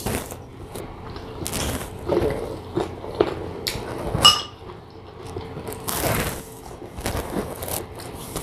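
Close-up eating sounds: irregular crunching bites and chewing of slices of sour unripe green mango. A short ringing clink from the glass dip bowl comes a little after four seconds in.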